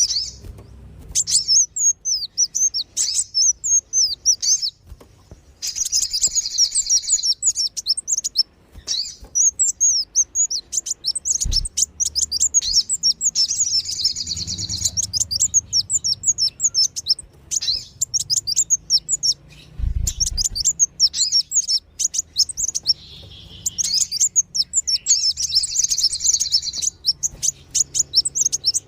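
Sunbirds (kolibri wulung and sogon) calling in rapid, agitated bursts of thin high chirps, a bird-lure recording meant to draw wild birds in. The chirping comes in runs of several seconds with short pauses, and there are two brief low thumps partway through.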